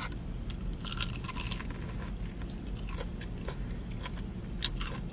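Biting into and chewing a Korean fried mozzarella corn dog, the crisp fried batter crunching in short irregular crackles over a low steady hum.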